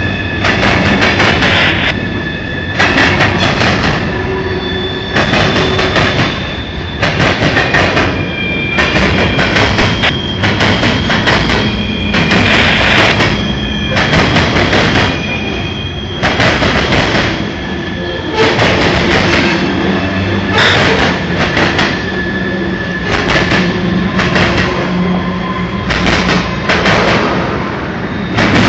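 Freight train cars rolling past, the wheels clattering over rail joints about once every second, with high-pitched wheel squeal that comes and goes.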